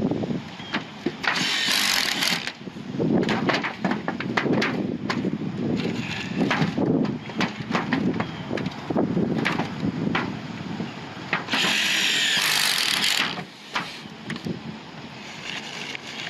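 Roof work on sheet metal: scattered knocks, clicks and scraping, with two short bursts of high hiss, about two seconds in and again near twelve seconds.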